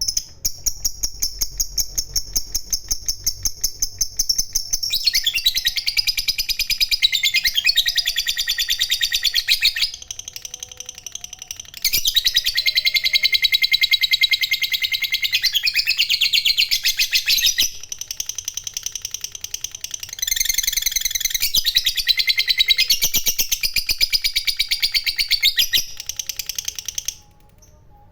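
Lovebird 'ngekek panjang': long runs of rapid, high-pitched chattering trill, each held for several seconds. The runs break off twice for short pauses, about ten and eighteen seconds in, and stop shortly before the end.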